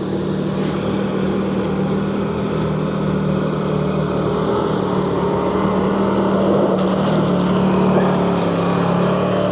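Four-stroke dirt bike engine running steadily at low revs, its pitch holding nearly constant with a slight shift near the end.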